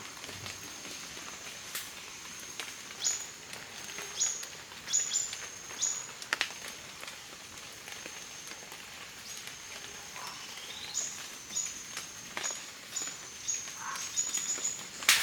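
Bird chirps: a dozen or so short, sharp calls that sweep downward, and one that rises, over a steady high whine. Scattered clicks, with a sharp one at the end.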